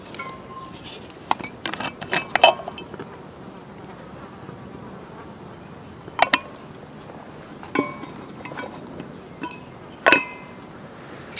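A metal utensil clinking against a metal pan or plate, each strike ringing briefly. A quick cluster of clinks comes a second or two in, then single clinks a couple of seconds apart.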